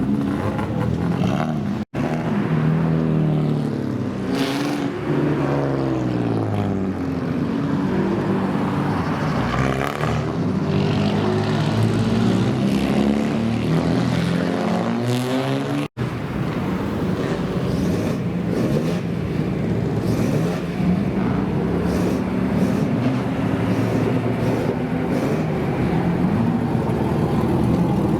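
Loud engines of modified older Japanese cars (kaido racers) being revved up and down over and over, the pitch rising and falling in quick blips. The sound breaks off abruptly twice, about 2 and 16 seconds in, and comes straight back.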